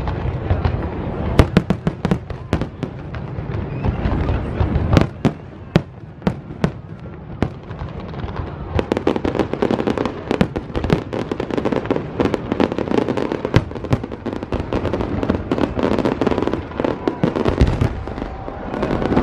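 Fireworks display: a rapid string of sharp bangs and crackles over a low rumble, packed thickest in the second half.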